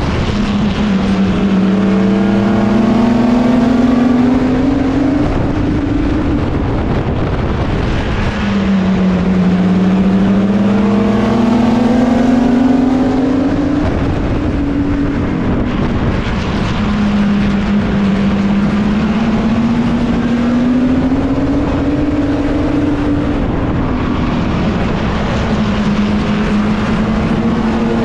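Racing mini truck's engine heard from its own roof: it accelerates down each straight with the pitch climbing for several seconds, then drops sharply as the driver lifts for the turns. This repeats lap after lap, about every eight seconds.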